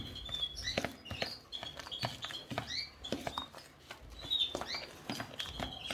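A spoon stirring moist canary egg food in a bowl, making irregular clicks and soft wet scrapes. A few short, high chirps come in among them.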